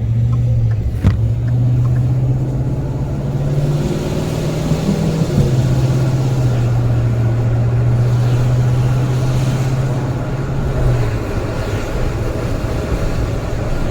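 A motor running with a steady low hum that shifts up in pitch about a second in and again around four seconds, drops back at five and a half, and falls away near eleven seconds, under a steady hiss.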